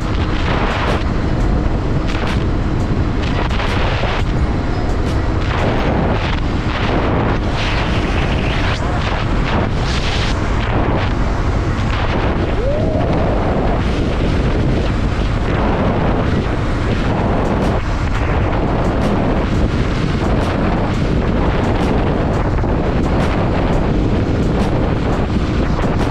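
Wind buffeting the microphone on a moving motorcycle: a steady, loud, low rush of noise with the bike's engine running underneath.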